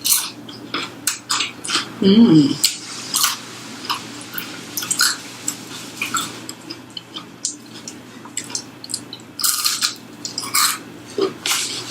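Close-miked eating: chewing with irregular crunches and wet mouth clicks, and a short hummed "mm" about two seconds in.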